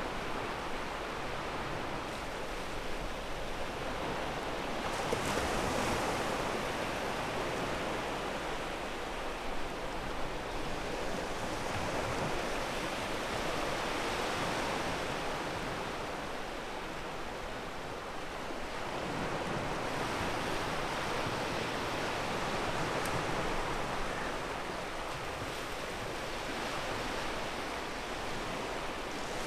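Ocean waves washing onto a pebble beach: a continuous rushing surf that swells and eases slowly, with louder surges about five seconds in, around the middle, and again near the end.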